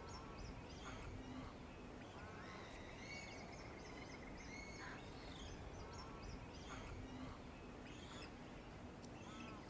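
Faint birdsong from several birds: many short chirps and calls, with one longer trill a few seconds in.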